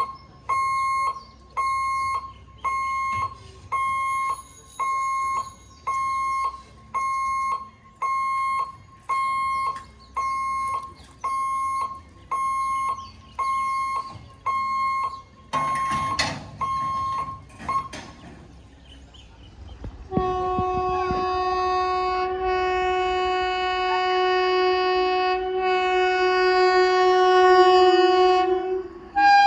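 Level-crossing warning hooter beeping a little over once a second, signalling that the gate is closing for an approaching train; it stops after about 16 seconds. Then comes a brief burst of noise, and from about 20 seconds a train horn sounds one long, steady blast that ends just before the close.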